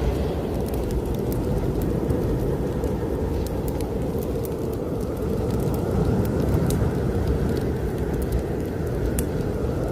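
Strong snowstorm wind blowing steadily, with a faint whistle that swells in the second half, over the scattered crackles and pops of a wood fire burning in a fireplace.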